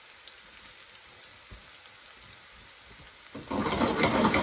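Onion and spice mixture frying in an aluminium karahi, a faint steady sizzle at first. About three and a half seconds in, the sizzling turns suddenly loud as a metal spoon stirs through the pan.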